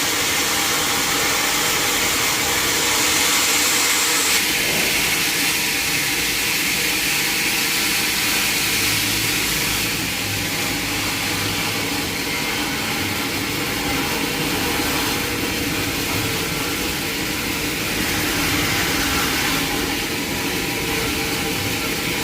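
Sawmill machinery running with a loud, steady machine noise that shifts in tone about four seconds in and again about ten seconds in.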